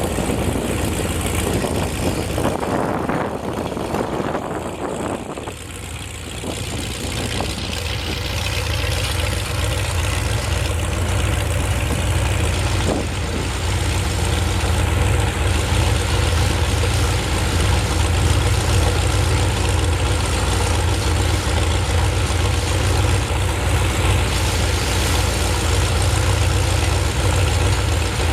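Heavy engine running steadily at idle, a low hum with a wide hiss over it; the sound drops briefly a few seconds in, then runs steady again.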